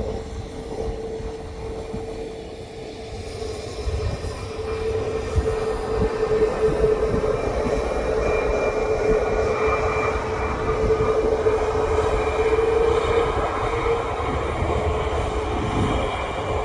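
Jet airliner's engines running, a steady humming tone over a low rumble that grows louder about four seconds in.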